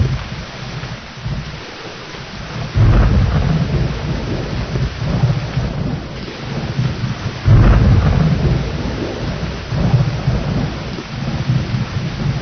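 Thunderstorm: steady rain with rumbling thunder. Two heavy rolls of thunder break in suddenly, about three and seven and a half seconds in, with a smaller rumble near the end.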